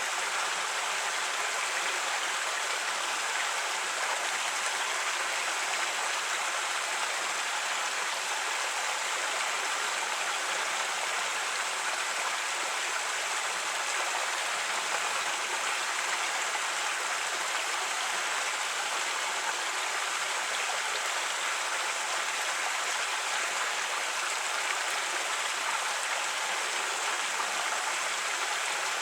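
Creek water flowing and rushing over rocks, a steady even rush.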